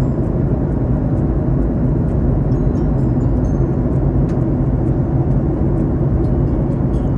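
Airliner cabin noise: the steady low rumble of jet engines and airflow, with a few faint ticks over it.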